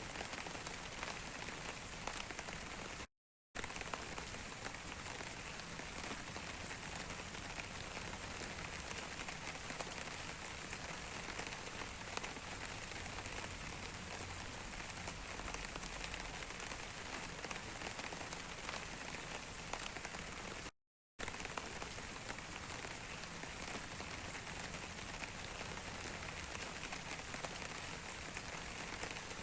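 Steady rain falling on a surface, an even hiss dotted with many small drop ticks. The sound cuts out completely for a fraction of a second twice, about 3 seconds in and about 21 seconds in, as at an edit join.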